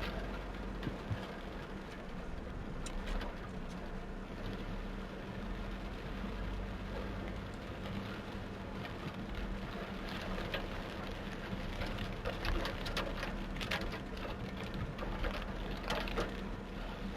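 Heavy rain falling on a car, heard from inside the cabin, over the steady hum of the car's running engine. The patter of drops gets denser in the second half.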